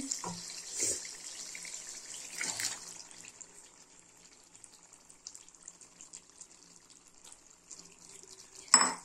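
Chicken frying in a metal handi as yogurt goes in: a faint sizzle with soft spatula knocks and splats in the first few seconds, then the sizzle fades. A single sharp metal clank comes near the end.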